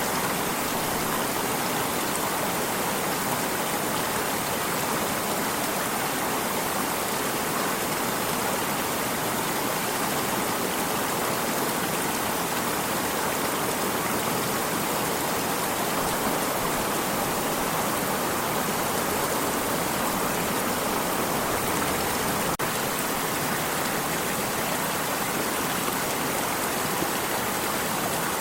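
Flowing stream, a steady, even rush of running water with no change, broken once by a brief tick about three quarters of the way through.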